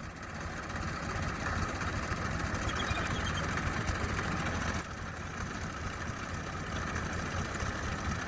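Tractor engine running steadily, growing louder over the first second or so, with a brief drop in level about halfway through.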